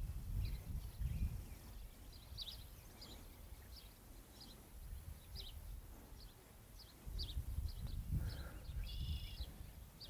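Small birds chirping: many short, high chirps at an uneven pace, with one longer call about nine seconds in. A low rumble sits under them at the start and again over the last few seconds.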